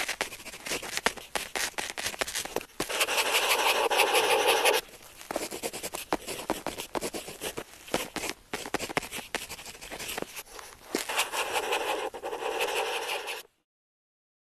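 Pen tip scratching across paper while writing: a run of quick short strokes and taps, with two longer continuous scratches, one about three seconds in and one about eleven seconds in. The sound cuts off abruptly just before the end.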